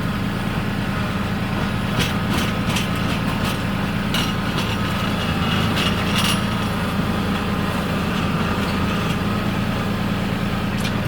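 RK37 compact tractor's engine running steadily, with a scattering of sharp clicks and knocks from about two to six seconds in.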